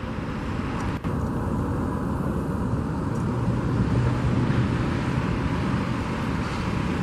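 Steady low rumble of distant engines, swelling a little around the middle, with a single short click about a second in.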